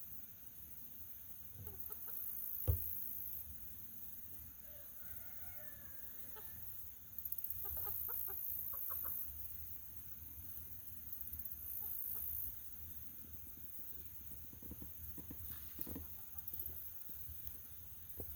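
Backyard chickens clucking, with short calls in scattered clusters. A single sharp knock comes about three seconds in.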